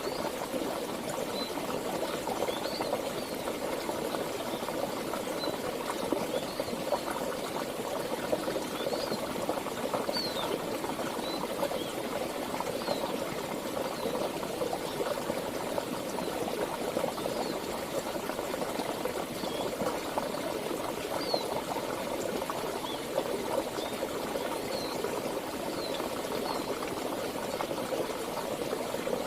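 Flowing stream water babbling steadily, with faint short high chirps now and then.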